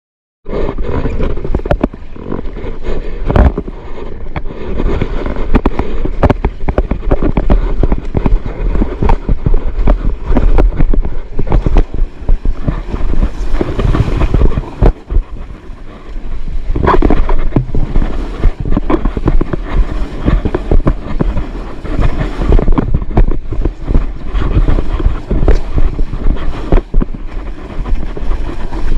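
Loud wind buffeting the microphone over rushing, crashing surf, with many sudden thumps and splashes, starting abruptly about half a second in.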